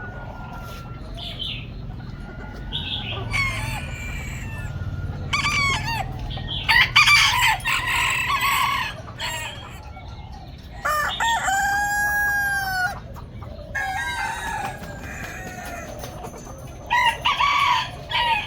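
Roosters crowing repeatedly, several crows overlapping, with shorter clucking calls in between; one long, clear crow comes about eleven seconds in.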